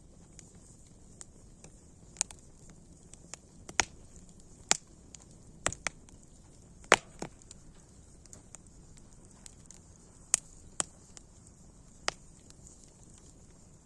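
Wood fire crackling: a soft steady hiss with sharp, irregular pops and snaps, a few loud ones standing out among many small ticks.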